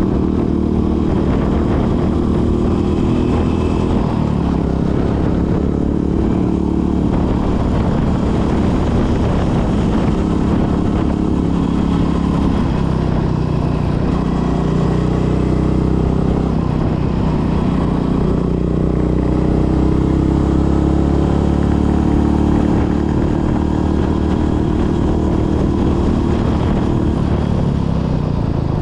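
Royal Enfield Meteor 350's single-cylinder engine running through an aftermarket AEW exhaust while riding on the road. The exhaust note drops and rises again several times as the throttle and gears change.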